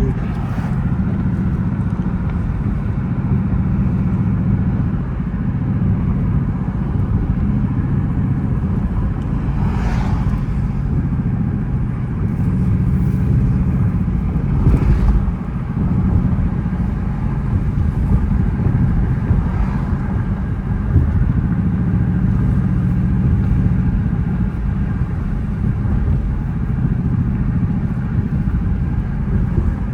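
Dodge Charger R/T's 5.7-litre Hemi V8 engine and exhaust running steadily while the car is driven, with only small changes in load.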